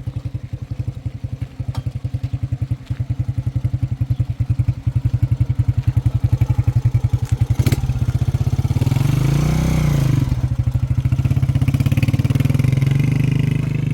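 Motorcycle engine chugging at low revs, the firing pulses getting louder. About eight seconds in there is a knock, then the engine revs up and back down.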